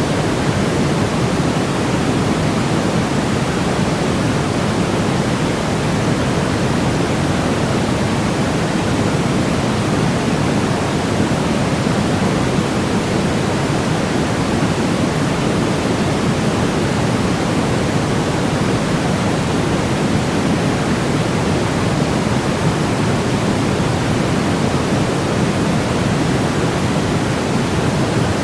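Steady synthetic white noise of the kind played to settle babies: an even, unbroken hiss weighted toward the low and middle range, with no change in level.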